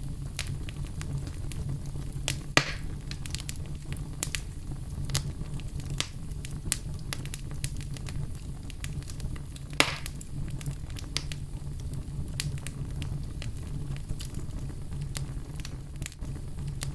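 Wood fire burning in a fireplace: a steady low rumble of flames with frequent sharp crackles and pops, two of them louder, a couple of seconds in and about ten seconds in.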